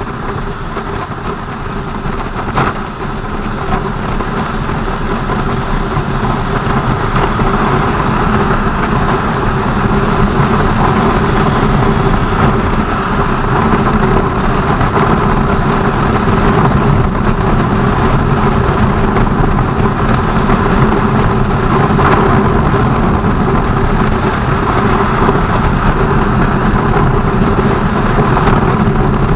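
BMW R 1200 GS motorcycle's boxer-twin engine running, growing louder over the first several seconds and then holding steady.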